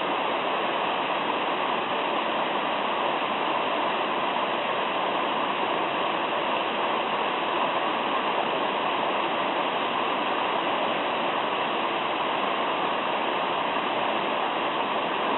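Mountain stream babbling: a steady, unbroken rush of flowing water.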